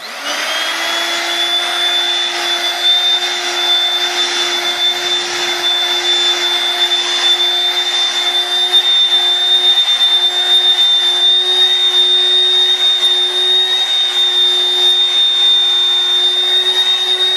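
Corded Dirt Devil vacuum cleaner switched on, its motor spinning up and then running steadily with a high whine over a rush of air.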